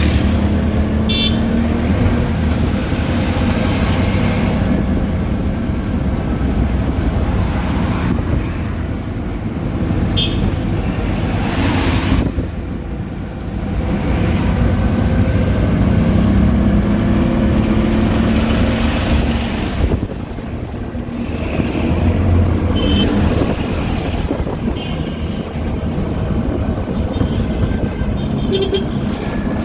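Motor vehicle engine running amid road traffic, with a few short horn toots.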